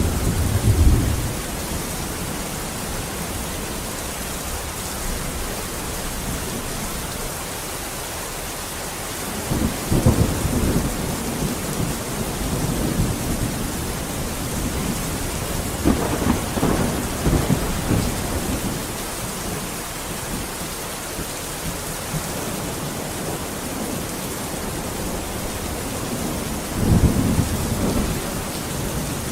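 Steady heavy rain with thunder rumbling in several low rolls: one at the start, others about a third and halfway through, and one near the end.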